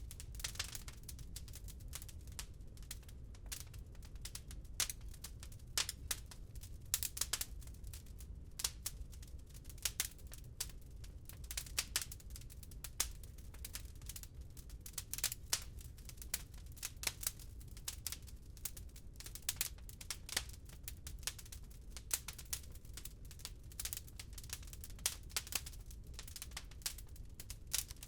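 Wood fire crackling in a fireplace: a steady stream of irregular sharp pops and snaps, some louder than others, over a low, steady rumble.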